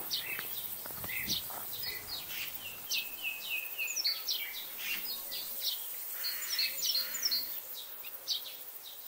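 Songbirds singing and chirping, with many short high notes and quick rising and falling calls overlapping.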